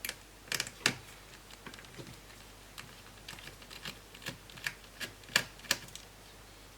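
Irregular light clicks and taps, a dozen or so, of a screwdriver and the laptop's plastic parts being handled while two screws are taken out of the screen assembly.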